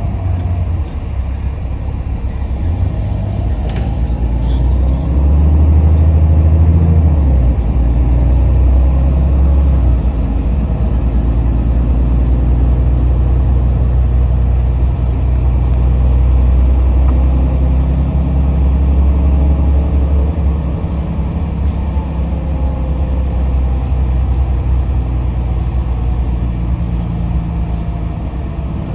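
Yutong ZK6128HG diesel city bus heard from inside the cabin while driving: a steady low engine and road rumble, swelling louder for a couple of seconds about five seconds in, then running on evenly.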